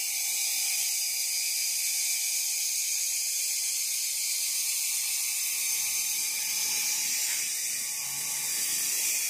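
Automatic stainless-steel egg washing machine running, its soft plastic brush rollers turning and scrubbing duck eggs, with a steady, even mechanical hiss.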